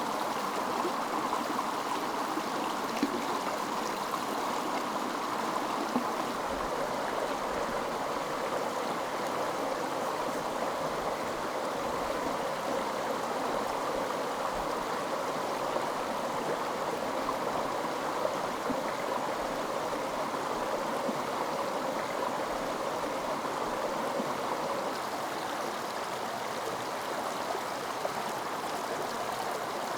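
Steady rushing and gurgling of a flowing mountain stream, unchanging throughout.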